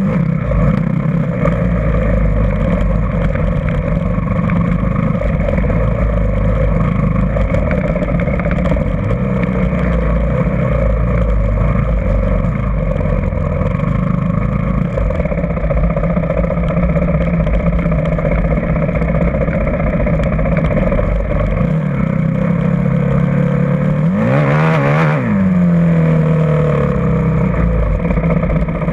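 Motocross dirt bike engines running at fairly steady revs, with a brief sweep in pitch and a louder spell about 25 seconds in, as a bike passes close.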